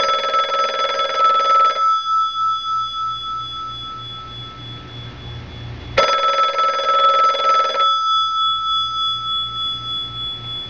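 Old black rotary-dial telephone's bell ringing: two rings about two seconds long, six seconds apart, with the bell tones ringing on faintly between them.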